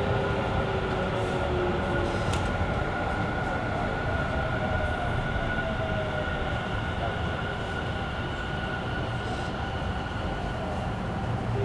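Running sound inside a Tobu electric commuter train car (car 59009): a steady wheel-on-rail rumble, with the traction motors' whine gliding down in pitch as the train slows.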